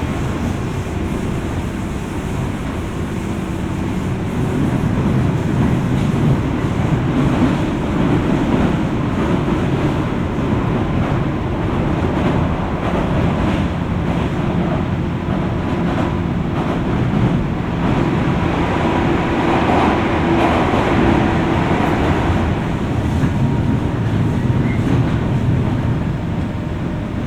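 JR West 201 series electric train heard from inside its motor car over the armature chopper, running between stations: a steady, loud rumble of wheels and traction motors with a few faint steady tones.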